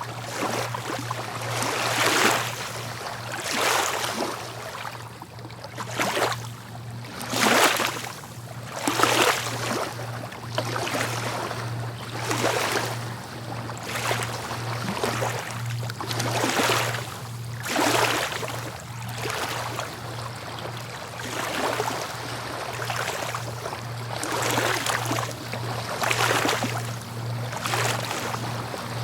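Sea waves washing on the shore, one surge of splashing every second or two, with a steady low hum underneath.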